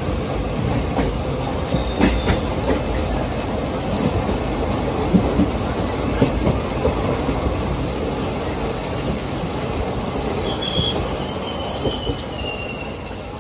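Blue Indian Railways passenger coaches running close past on the adjacent track: a dense, steady rumble of steel wheels on rail with scattered knocks, and high wheel squeals from about nine seconds in. The noise starts to fall away near the end as the train clears.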